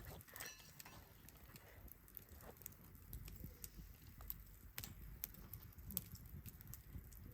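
Wood fire crackling: scattered sharp pops and ticks at irregular intervals over a faint low rumble.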